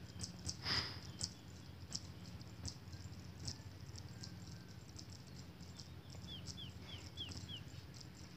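Faint calls of small birds: sharp high chips every half second to a second, and from about six seconds in a run of five quick downward-slurred notes.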